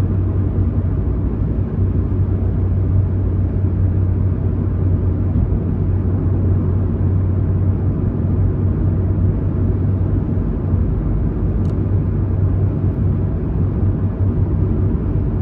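Steady low road and engine rumble inside a moving car's cabin, tyres running on a snow-covered road.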